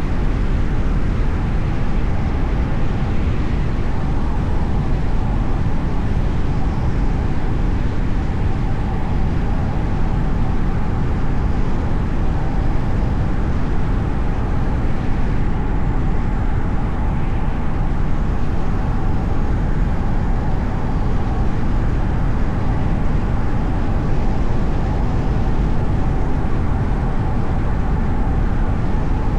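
Steady road and engine noise of a car driving, low and even, with a faint steady whine.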